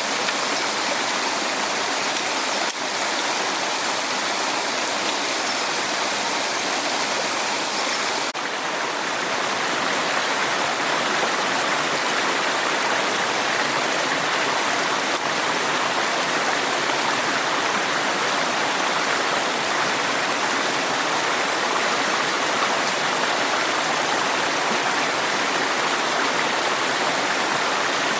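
Steady rush of flowing water, an even hiss with a brief dip about eight seconds in.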